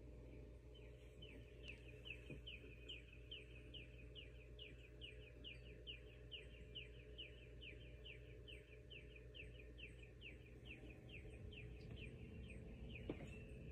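A bird calling: a long, even run of short, quick downward-sliding chirps, about two or three a second, faint over a steady low hum. There is a single short click near the end.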